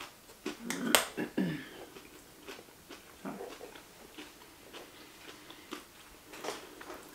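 Close-miked chewing and mouth sounds of people eating sushi rolls, with a cluster of sharp clicks and smacks about a second in, then scattered smaller clicks.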